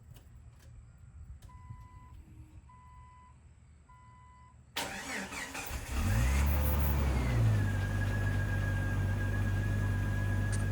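Three short warning chimes, then the 1997 Jeep Wrangler's 4.0-litre straight-six is cranked by the starter, catches about six seconds in, flares briefly and settles into a steady idle with a thin whine over it. The engine is running smoothly after its burnt exhaust valve and valve seals were replaced.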